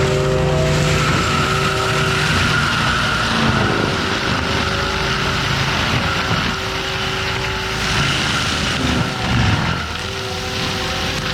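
Forestry mulcher on a compact track loader running under load: steady engine and hydraulic drum whine over a constant rush. The whining tones break off briefly twice, about a third of the way in and near the end.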